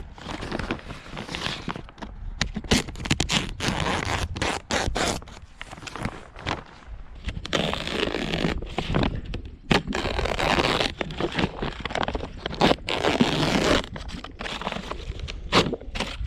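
Greenhouse plastic sheeting rustling and crackling as it is handled, in an irregular run of scraping strokes.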